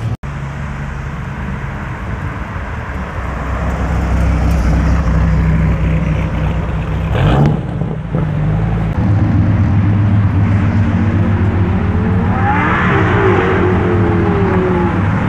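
Sports car engines running, growing louder about four seconds in, with a brief sharp blip around halfway. Near the end the engine pitch rises and falls as a car accelerates past.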